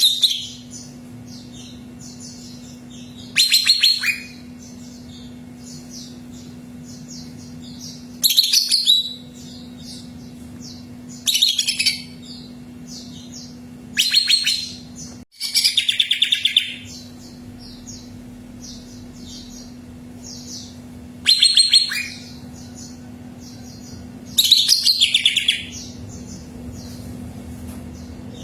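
Cucak ijo (green leafbird) singing: loud, rapid phrases about a second long, repeating every three to five seconds, with softer short chirps between them. A steady low hum runs underneath.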